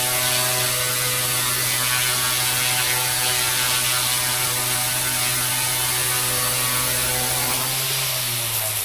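GOOSKY S2 micro RC helicopter's direct-drive brushless motors and rotor spinning at a steady speed, a constant buzzing whine. Right at the end it begins to spool down, the pitch starting to fall.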